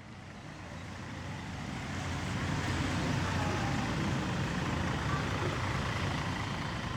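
Road vehicle noise: a steady rumble of engine and road with a hiss on top, fading in over the first two seconds or so.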